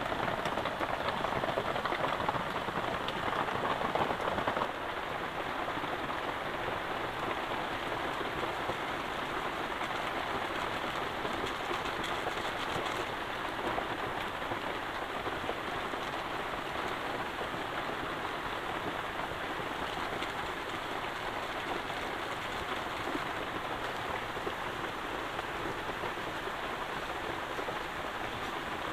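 Heavy rain falling steadily, a little louder for the first five seconds or so.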